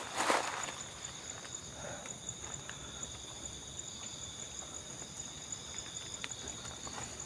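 Night insects chirring steadily in two high, even trills, one with a fast pulse. There is a short burst of rustling near the start.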